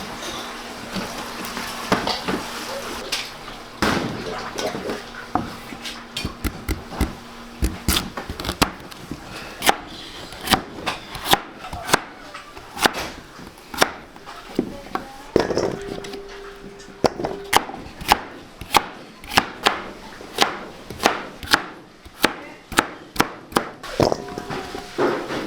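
A knife chopping on a wooden cutting board: sharp, separate chops, scattered at first, then settling into a steady run of about two a second.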